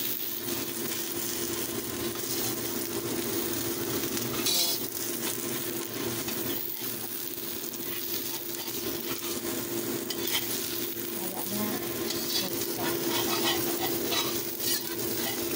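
Egg and enoki mushroom omelette sizzling in hot oil in a wok. A metal spatula scrapes along the pan and slides under the omelette now and then.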